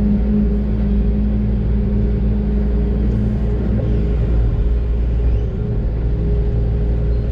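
Doosan DX600 excavator's diesel engine running under load, heard from inside the cab: a steady low rumble with a steady hum over it that fades about four seconds in.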